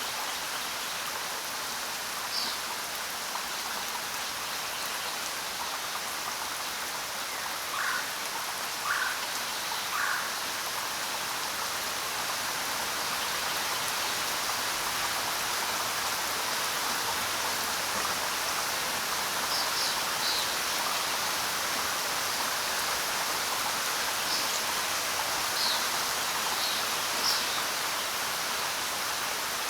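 Steady rain falling on the ground: an even, unbroken hiss. A few short, sharper sounds stand out over it, three about a second apart a third of the way in and a small cluster near the end.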